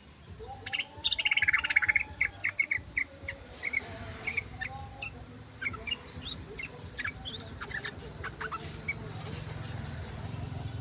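Yellow-vented bulbul (trucukan) calling. A loud, quick run of short chirps comes about a second in, followed by scattered single chirps.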